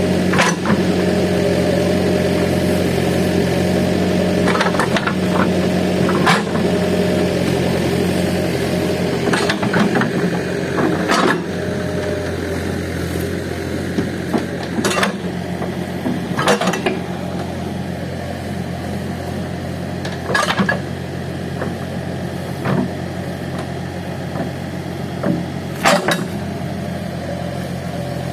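Diesel engine of a Case heavy machine running steadily under work, with sharp clanks and knocks every few seconds.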